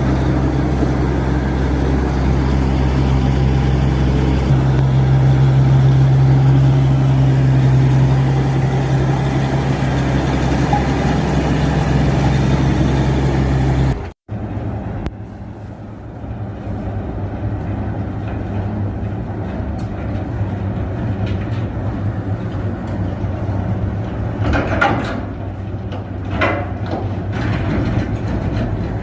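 Heavy vehicle engines running: a steady drone with a strong low hum, which cuts off abruptly about halfway through. It gives way to another, rougher engine sound, with a few short louder bursts near the end.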